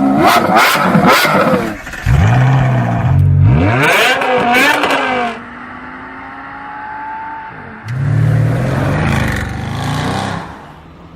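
A performance car's engine revving hard in three bursts, the pitch climbing and dropping each time, and idling more quietly between the second and third bursts.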